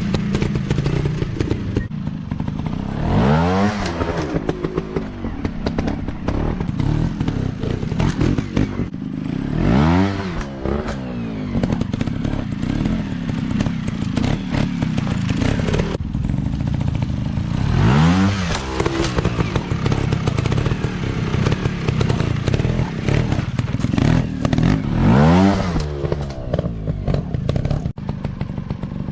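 Small dirt bike engines running continuously, with a bike revving up and dropping back four times, roughly every seven seconds.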